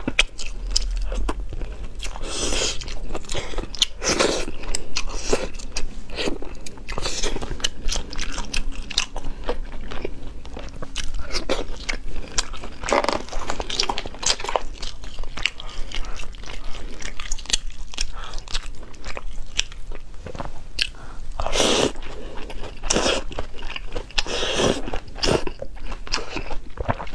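Close-miked chewing and biting of stewed pork and pickled Chinese cabbage: a steady run of wet mouth clicks and crunches.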